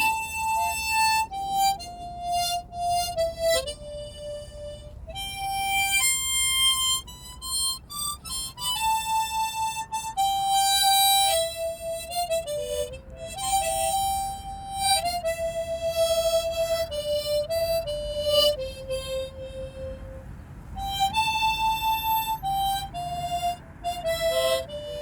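Harmonica playing a slow melody, one held note at a time, the notes moving up and down in steps.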